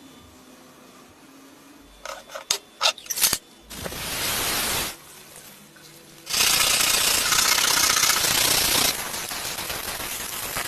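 A few sharp clicks and taps, then a power tool running in a short spell of about a second and a longer spell of about four seconds, a harsh hiss without a clear pitch, working on the rusty knife.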